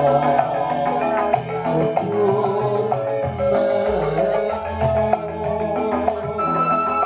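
Javanese gamelan-style music: struck metallophones play a melody over low held bass tones.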